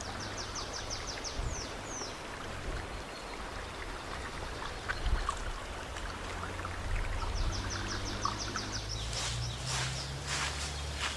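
A songbird sings twice, each time a quick run of about a dozen high, evenly repeated notes ending in a short downward flourish, over the steady low rush of a stream. Near the end come irregular rustling crunches.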